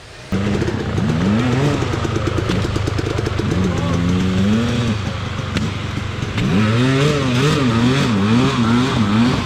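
Dirt bike engine revving, its pitch rising and falling again and again with the throttle. It starts suddenly a moment in and gets louder about two-thirds of the way through.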